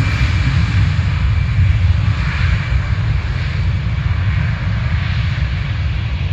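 Airliner engine noise, a steady loud rumble with a broad rushing hiss that slowly fades toward the end.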